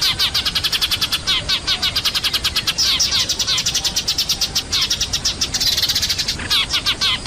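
A flock of Eurasian tree sparrows chattering noisily, a dense stream of rapid overlapping chirps that grows busiest about six seconds in. This is a sparrow lure call, played to bring sparrows down.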